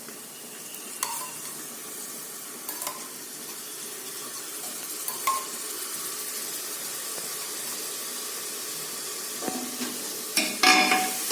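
Onion, mint and coriander masala with curd frying in a pressure cooker, a steady sizzle. A metal spoon stirs it and knocks against the pot a few times, with louder clattering near the end.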